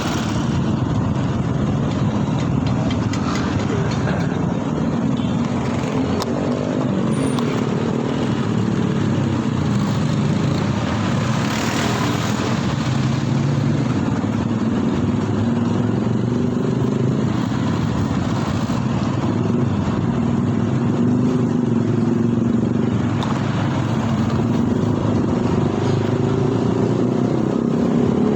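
Motorcycle on the move: engine running with its revs slowly rising and falling, over steady road and wind noise. A brief louder noisy swell comes about twelve seconds in.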